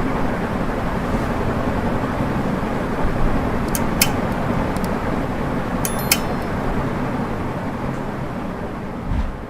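Steady whirring of a ceiling fan running, with a few sharp clicks about four and six seconds in; the sound starts to fade near the end.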